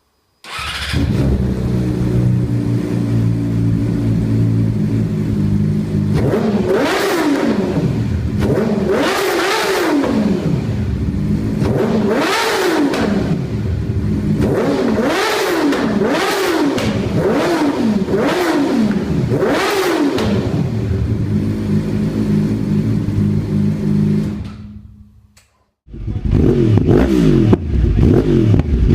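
A Yamaha supersport motorcycle's inline-four engine idling, then revved about eight times in quick succession, each rev climbing and dropping back, before settling to idle again. It fades out, and after a short gap another engine is revving near the end.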